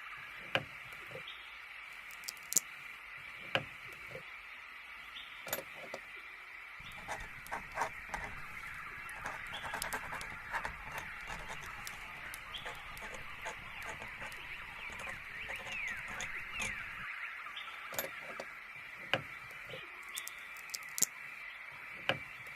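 A steady chorus of small birds chirping and twittering, with scattered sharp clicks throughout.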